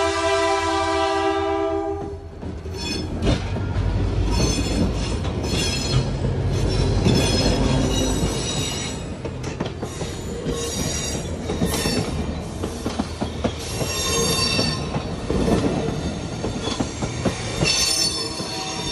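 Rocky Mountaineer diesel locomotive's horn blowing a steady chord that cuts off about two seconds in. Then the locomotive rumbles past and the passenger cars roll by, with intermittent high wheel squeal and clatter on the rails.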